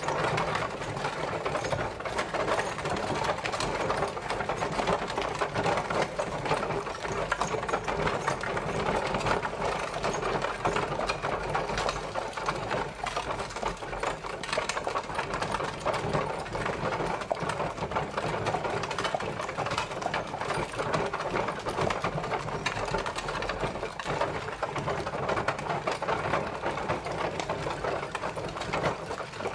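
Horse-drawn carriage travelling: a steady, fast clatter and rattle that runs on without a break.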